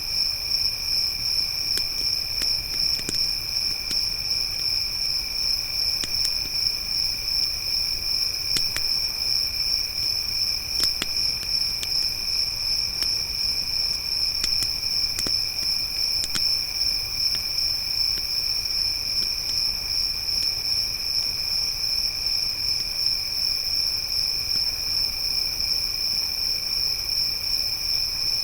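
A steady chorus of crickets trilling without a break, with scattered sharp pops and crackles from a campfire.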